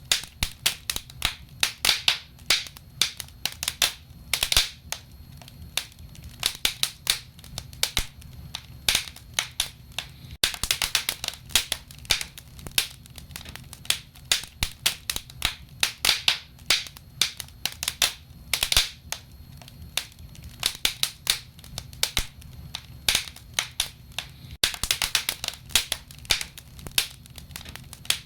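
Wood fire crackling in a fireplace: many sharp, irregular pops and snaps, several a second, over a low steady rumble of the flames.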